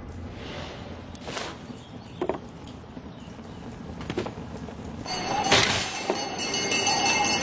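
Cartoon soundtrack: a few soft whooshes and knocks, then music with sustained high ringing tones coming in about five seconds in.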